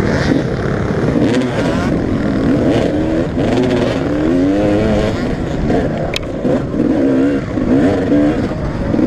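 Several motocross bikes racing, their engines overlapping and revving up and down as they rise and fall in pitch, with one sharp click about six seconds in.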